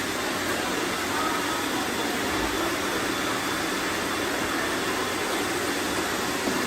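Robot vacuums running: a steady whirring hiss of suction fans and brushes.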